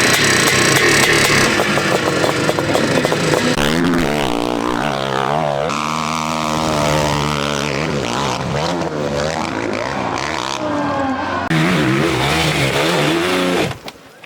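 Dirt bike engines revving hard, the pitch rising and falling with the throttle. The sound changes abruptly once and drops away sharply near the end.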